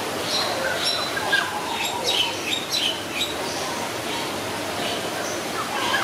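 Birds chirping: a quick run of short, high chirps through the first three seconds, then a few scattered ones, over a steady background hiss.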